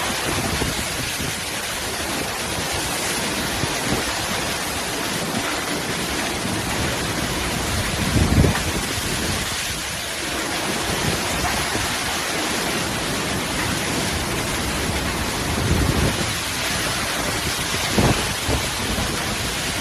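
Heavy rain pouring steadily in strong wind, a constant dense hiss, with a few louder low rushes of wind about eight, sixteen and eighteen seconds in.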